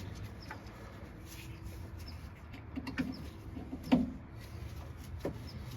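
A few light clicks and knocks from hand work on the engine as the spark plug wire boots are handled and seated on the cylinder head, about one a second in the second half, with a faint steady tone underneath.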